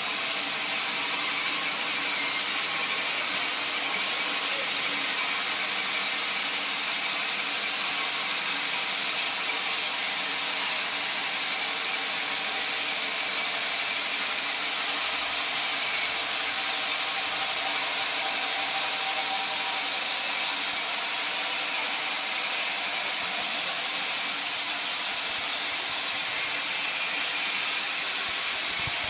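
Sawmill saw running steadily through a log: a continuous, even cutting noise with no breaks or changes.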